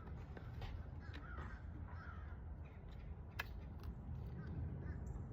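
A few short bird calls over a steady low rumble, with a sharp click about three and a half seconds in.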